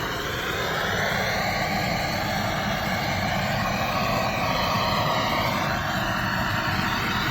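An engine-driven machine running steadily with a slowly wavering pitch.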